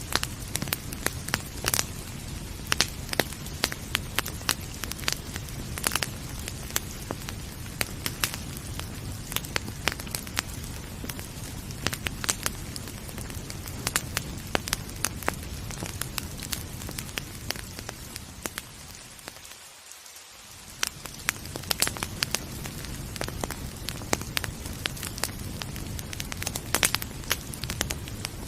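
Wood fire crackling, with frequent sharp irregular pops over a steady hiss of rain. About two-thirds of the way through, the sound fades down briefly and swells back up.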